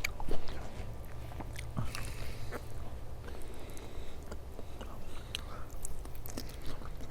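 A person chewing and biting food close to the microphone, with scattered wet clicks and smacks of the mouth.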